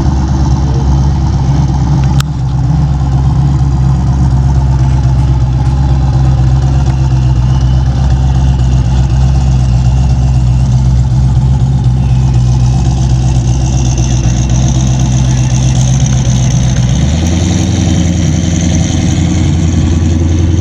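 Hot rod's big engine idling with a steady low rumble; its pitch shifts near the end.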